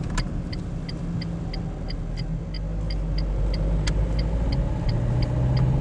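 Steady engine and tyre rumble heard inside a moving car, with a turn signal ticking evenly about three times a second. The engine note rises a little near the end.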